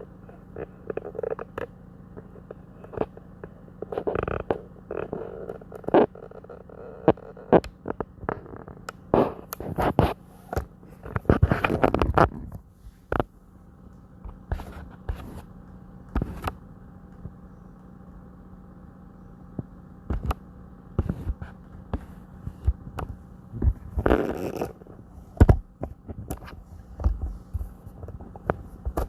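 Whirlpool WFO3P33DLXUK dishwasher in its power-drying phase: a steady low hum with many irregular clicks and knocks, and a few short louder rustling stretches.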